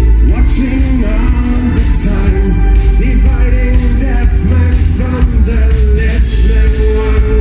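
A live synth-pop song played loud through a concert PA, with a heavy booming bass and a voice singing over the band.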